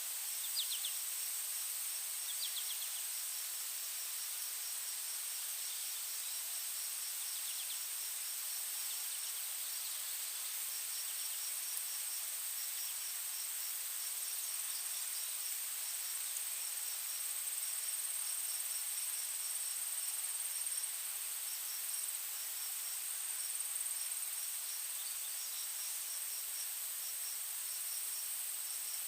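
Insect chorus of crickets: a steady, high-pitched continuous trill with rapid, evenly pulsed chirping below it, which stops and restarts several times. A few short, lower chirps come in the first few seconds.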